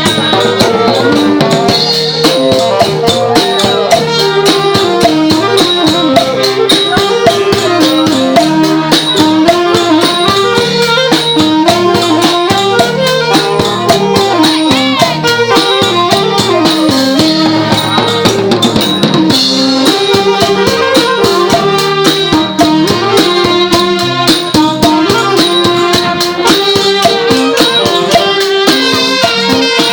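Thai brass band (trae wong) playing a continuous melody over steady, dense drum and cymbal beats.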